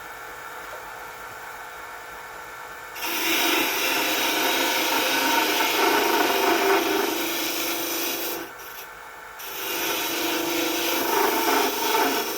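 Wood lathe running with a steady hum, then a turning tool cutting into the spinning wood blank with a loud scraping from about three seconds in, rounding it over. The cut stops for about a second near two-thirds of the way through, then resumes.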